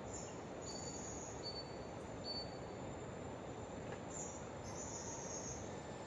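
Rainforest ambience: insects buzzing high-pitched in short spells of about half a second to a second, with a few brief thin chirps, over a steady low rushing noise.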